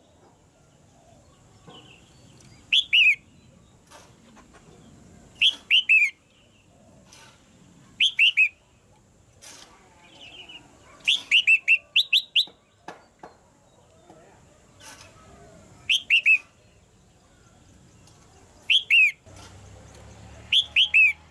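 Red-whiskered bulbul calling: short, loud phrases of two to four quick chirps, each falling in pitch, repeated every few seconds.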